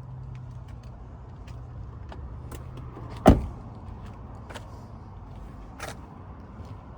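A truck door shut once with a solid thud about a third of the way in, with a lighter knock later, over a steady low hum and scattered light clicks.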